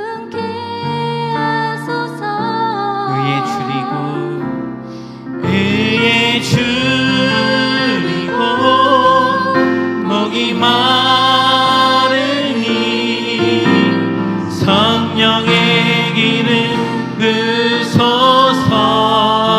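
Praise band playing a worship song with a sung melody in long, wavering held notes. The music swells fuller, with more percussion, about five and a half seconds in.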